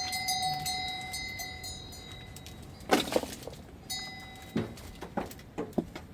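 A struck metal object ringing with a clear, bell-like tone that slowly fades, then a sharp clank about three seconds in and a fresh ring, followed by a few lighter knocks.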